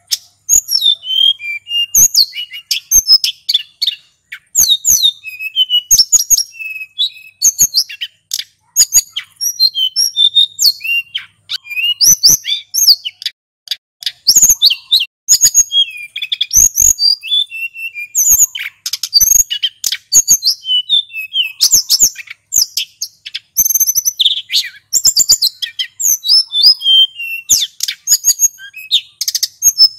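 Male hill blue flycatcher (sulingan gunung) singing continuously: fast, varied high whistles and trills, phrase after phrase with only short breaks, and sharp clicks scattered among the notes.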